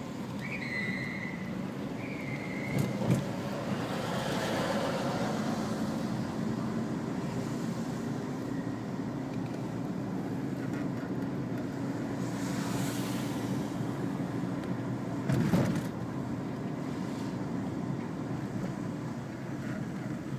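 Car driving along a road: steady engine and tyre rumble. A few short high chirps come in the first couple of seconds, a brief thump about three seconds in, and a louder thump a little after fifteen seconds.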